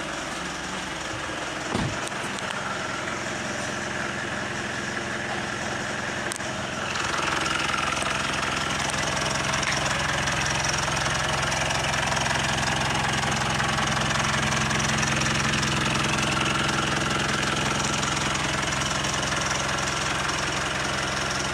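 Mitsubishi ASX engine running steadily. There is a brief low thump near two seconds in, and about seven seconds in the sound gets louder and brighter and stays that way.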